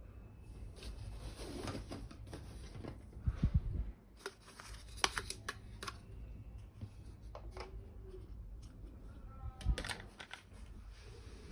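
Irregular clicks, taps and rustling of small plastic toy pieces being handled and unpacked, with a few louder knocks about three seconds in and again near the end.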